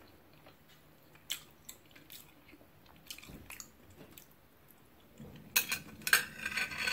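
A person chewing food close to the microphone, with faint mouth clicks. About five seconds in, louder scraping and rubbing sounds begin.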